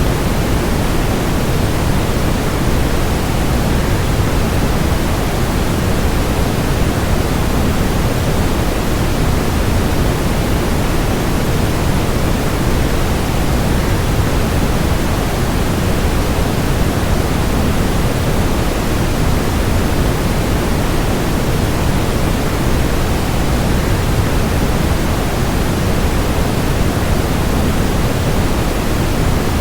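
Steady waterfall rush: an even, unbroken noise, heavier in the low end, with no changes.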